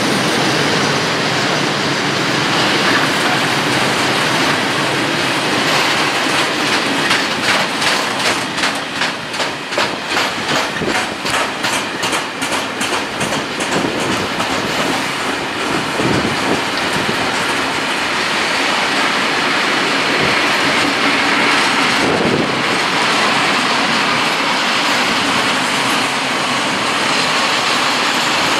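Freight train of open coal wagons rolling past: steady wheel-on-rail noise, with a run of evenly spaced clickety-clack from the wheels in the middle.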